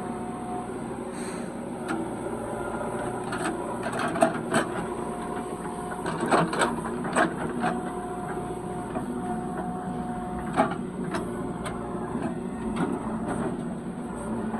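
JCB 3DX backhoe loader's diesel engine running, with a whine that comes and goes and several sharp knocks during loading.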